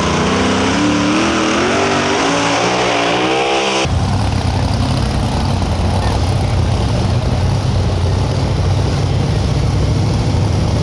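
A pulling vehicle's engine at full throttle during a pull. For about four seconds its note climbs and wavers under load. Then, at an abrupt switch, it gives way to a rougher, denser full-throttle sound with a heavy low rumble.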